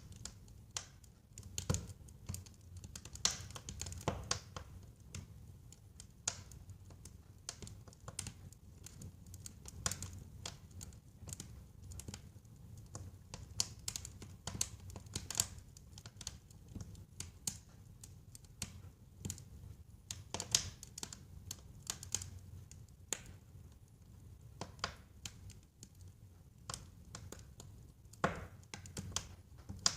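Fire burning in a fireplace, crackling with irregular sharp pops and snaps over a low steady rumble of the flames. A few louder pops stand out now and then.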